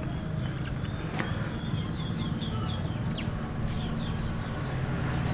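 A small bird chirping a quick run of short, high, slurred notes, about four a second, between roughly one and three seconds in, over a steady low background rumble.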